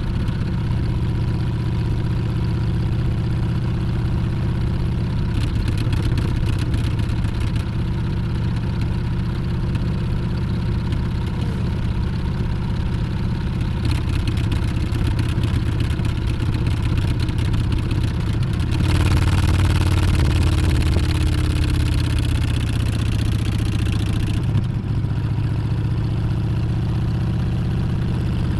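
Harley-Davidson Street Bob 114's Milwaukee-Eight V-twin running steadily while under way. About two-thirds of the way through it gets louder for about five seconds, then settles back.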